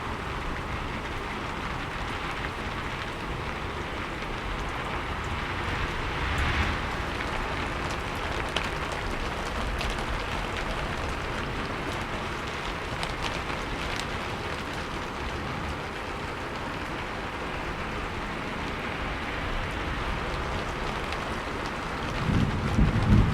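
Steady rain falling. A deep rumble of thunder builds up near the end.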